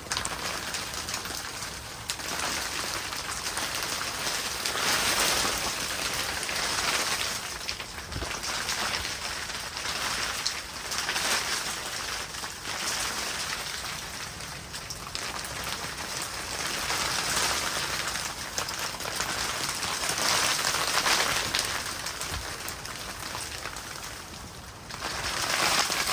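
Heavy rain falling steadily, swelling and easing every few seconds.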